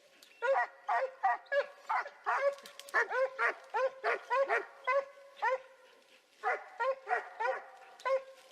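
Hunting dog barking in a rapid, repeated series, two to three barks a second, pausing briefly about six seconds in before a few more barks.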